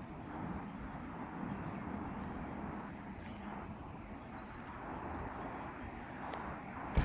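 Aircraft passing overhead, a steady wash of engine noise, with a single sharp click right at the end.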